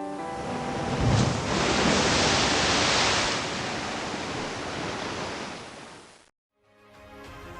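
A loud rushing noise that swells for a couple of seconds, eases off, and cuts off abruptly about six seconds in, with faint background music beneath it.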